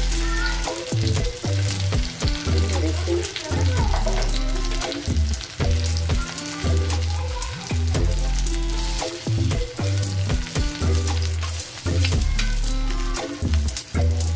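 Egg-coated potato patties (aloo tikki) sizzling and crackling in hot oil in a flat pan, with a spatula turning them. Background music with a repeating bass line plays over it.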